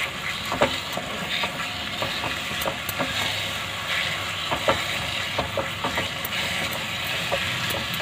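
Grated carrots and sugar syrup sizzling steadily in a non-stick kadai while a spatula stirs through them, with scattered soft scrapes and taps against the pan. The halwa is still wet from the water the sugar released, and it is being cooked until that water dries off.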